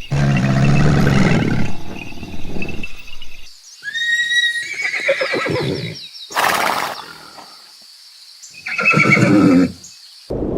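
A string of different animal calls cut one after another, with abrupt changes and short quiet gaps between them, including a high rising whistle-like call about four seconds in.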